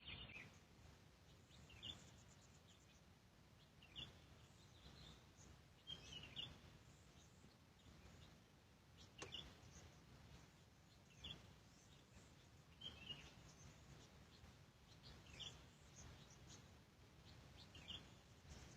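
Faint, short bird chirps repeating every second or two over a low, steady rumble.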